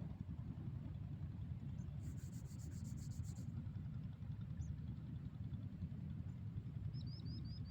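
A low, steady outdoor rumble. About two seconds in comes a brief, rapid, high-pitched trill, and near the end four short rising bird chirps.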